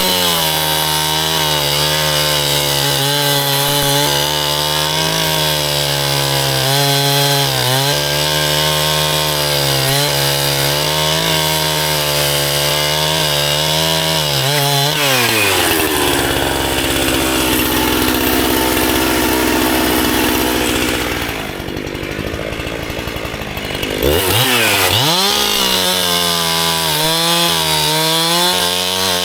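Gas chainsaw running at full throttle through firewood, its pitch dipping briefly now and then as the cut loads it. About halfway through the engine drops back to idle for several seconds, then revs up again and carries on at full speed.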